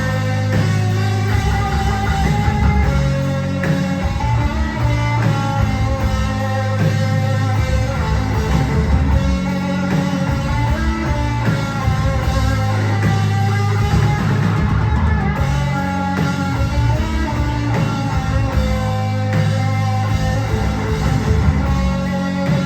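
A rock band playing live: electric guitar lines over a heavy bass and drums.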